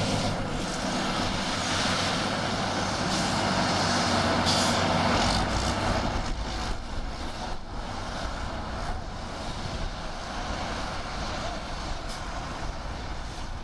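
Heavy diesel earth-moving machine engine running, louder for about the first six seconds, then settling to a lower, steadier level.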